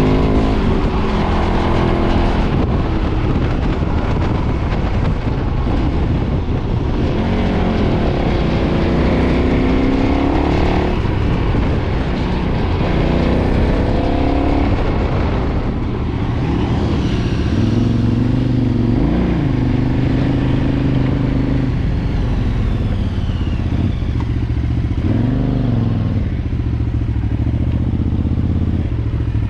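A 2013 KTM 990's V-twin engine through its stock exhaust while being ridden. The revs rise and fall repeatedly as the rider works the throttle and gears, over steady wind and road noise.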